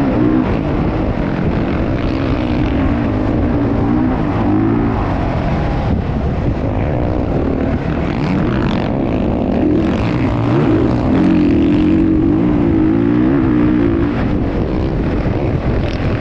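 Motocross dirt bike engines running at a steady loud level, their pitch wavering up and down as the throttle changes.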